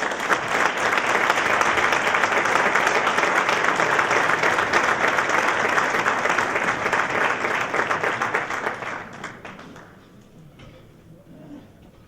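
Concert audience applauding: dense clapping that swells at the start, holds steady, and dies away about ten seconds in.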